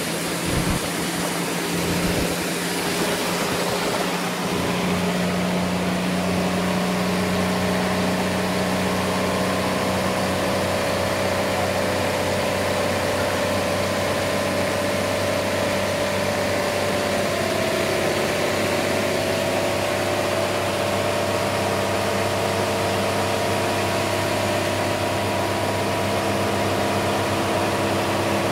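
Sawmill engine running steadily, a constant mechanical drone with a low hum, its pitch shifting slightly a little past halfway through.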